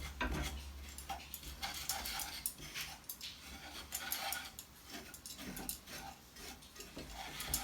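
Spoon stirring and scraping dry toasting cornmeal in a pot: a steady run of short, rapid scrapes.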